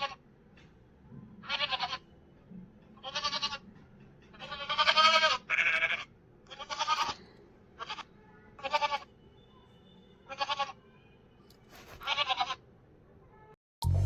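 Goat bleating repeatedly, about nine short calls one to two seconds apart.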